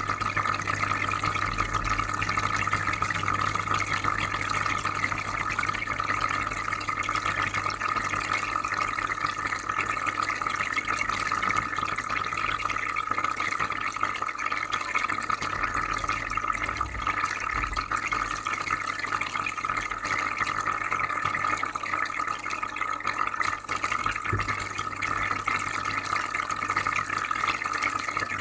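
Aquarium filter running: steady bubbling, trickling water over a low hum.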